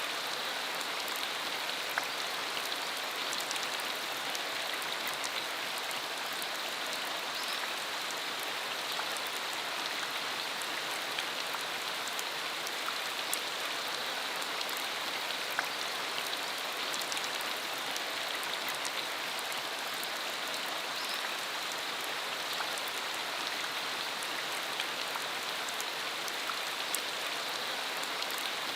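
Steady rain falling, a constant patter with many individual drops ticking through it.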